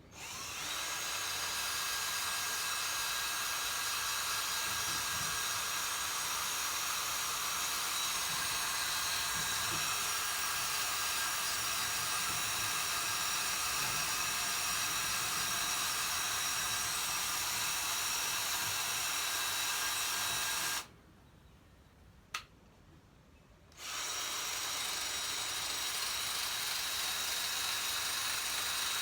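Electric drill running steadily, scrubbing rust off the exterior of a Tecumseh 6.5 hp engine. It stops for about three seconds near the two-thirds mark, with a single click in the pause, then runs again.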